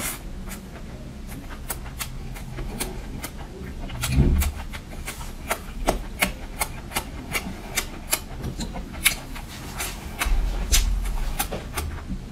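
Close-miked chewing of a chewy mouthful: wet mouth clicks and smacks, several a second. There is a dull low thump about four seconds in.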